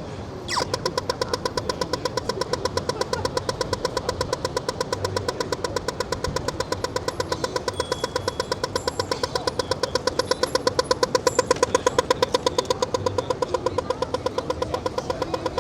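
Pedestrian crossing signal sounding its walk phase: a rapid, even, pitched ticking, several ticks a second, that starts abruptly about half a second in and swells louder for a few seconds near the end. Traffic rumbles underneath.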